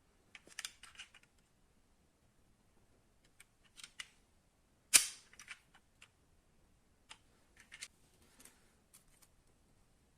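Small die-cast metal model cars being handled: a series of sharp clicks and taps in short clusters, the loudest a single sharp click about five seconds in.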